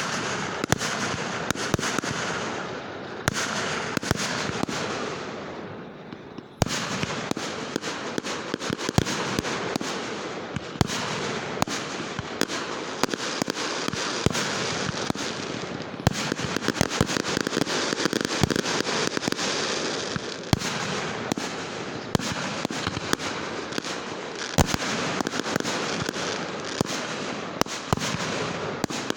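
Fireworks going off: a dense crackling peppered with many sharp pops and bangs, easing briefly around six seconds in before a sharp bang brings it back.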